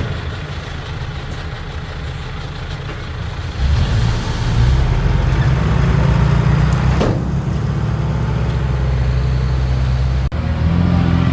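Heavy diesel engine of earthmoving equipment running steadily, getting louder about three and a half seconds in. A single sharp clank about seven seconds in, and the sound drops out for an instant near the end.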